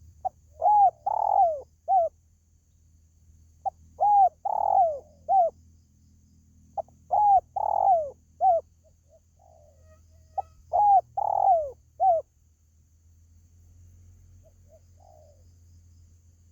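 Spotted dove (tekukur) cooing its song: four phrases about three and a half seconds apart. Each phrase has a few notes, the longest of which falls in pitch. A fainter short coo comes near the end.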